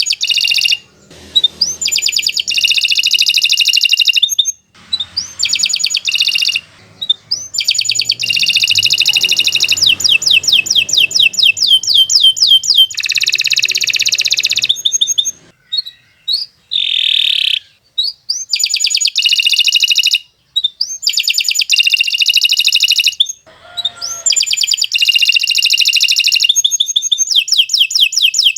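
Domestic canary singing long, very fast trills of high repeated notes, each phrase lasting a few seconds with short breaks between them.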